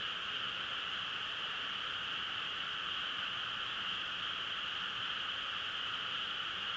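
A dense chorus of frogs, a steady, unbroken wall of calling with no single call standing out.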